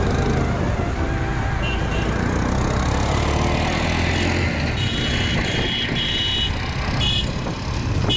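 Highway traffic heard from a moving motorcycle: a steady low engine note with road and wind noise, which drops away about halfway through. In the second half, several short, high-pitched vehicle horn toots sound in quick succession.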